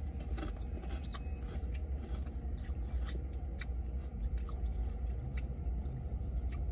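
A person chewing a Pringles potato chip: a run of irregular, crisp crunches several times a second, over a steady low rumble.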